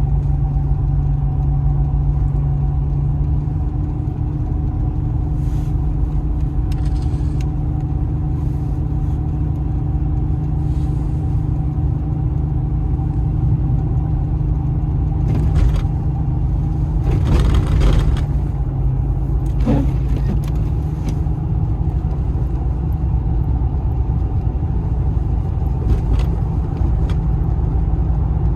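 Jeep Cherokee XJ running with a steady engine hum and low rumble. A few brief hissing swishes come in around the middle.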